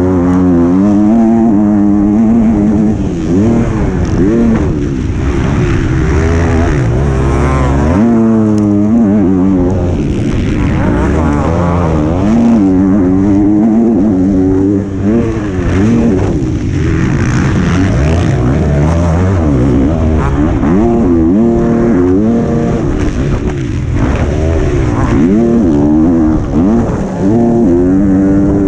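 125 cc two-stroke motocross bike engine, heard close up from the bike, revving hard and rising in pitch again and again, dropping back between each sweep as the rider shifts gears and rolls off the throttle.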